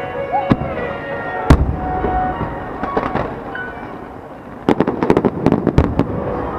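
Aerial fireworks shells bursting over the sea. A single loud bang comes about a second and a half in, and a quick cluster of crackling reports follows about five seconds in, over background music.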